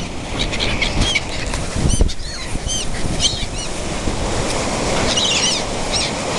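Many gulls calling in short, high-pitched cries, clustering together around a third of the way in and again near the end, over steady wind buffeting the microphone.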